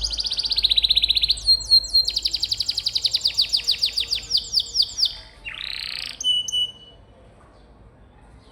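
Canary singing a fast rolling trill of rapidly repeated sweeping notes, about ten a second, that breaks off after about five seconds into a short harsh buzz and a thin high whistle.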